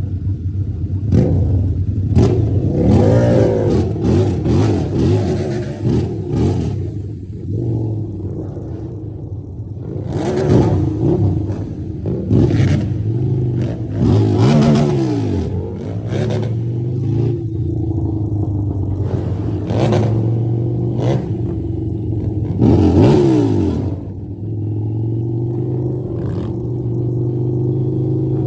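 Harley-Davidson motorcycle engine running steadily, revving up and dropping back about four times, with repeated short rushes of noise over it.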